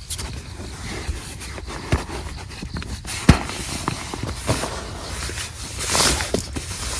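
Camping gear being handled and packed up: rustling, with scattered light knocks and clicks. One sharper knock comes about three seconds in, and a louder rustle comes near the end.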